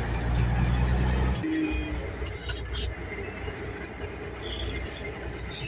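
Heavy truck engine running with a steady low note that drops away suddenly about a second and a half in. Two short high-pitched squeals follow, one in the middle and one near the end.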